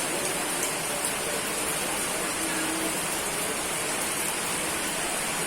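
Steady heavy rain falling on a surface, an even hiss with scattered drop patter.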